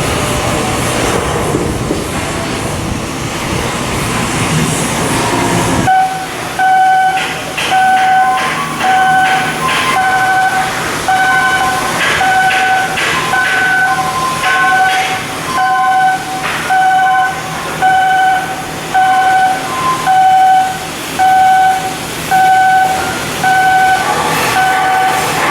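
Steady mechanical noise for about six seconds, then an abrupt switch to a repeating electronic beep, about one a second, with a few other short tones between the beeps.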